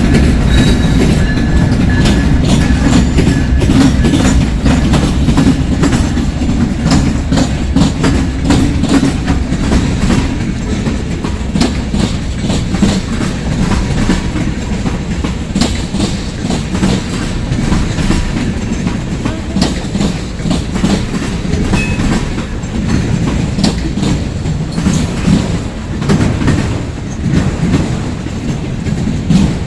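Long freight train passing close by: a steady heavy rumble with wheels clicking rapidly over rail joints.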